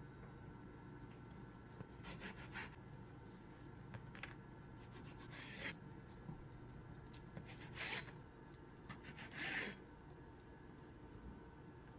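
Faint rubbing and scraping handling sounds, with a few short swishes; the two loudest come about eight and nine and a half seconds in.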